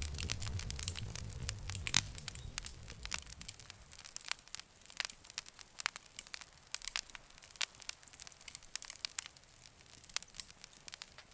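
Wood fire crackling, with many irregular sharp pops and snaps; the loudest pop comes about two seconds in. A low rumble runs beneath the crackle for the first few seconds and fades out about four seconds in.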